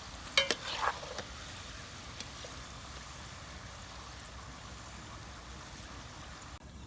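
Hot oil sizzling steadily as thin potato slices fry, with a few sharp clinks of a utensil against the pan in the first second as slices are lifted out. The sizzle drops away abruptly just before the end.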